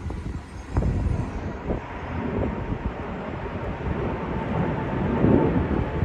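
A car driving at highway speed: steady road and wind noise with a low rumble, and a few brief knocks in the first two seconds.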